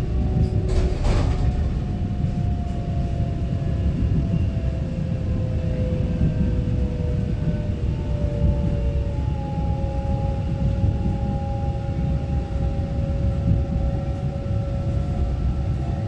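Inside a Taiwan Railway EMU900-series electric multiple unit slowing for a station stop: steady rumble of wheels on rail, with the electric traction motors' whine gradually falling in pitch as the train brakes. A short clack comes about a second in.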